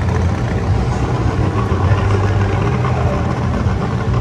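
A car engine idling steadily at a low pitch, with no revving.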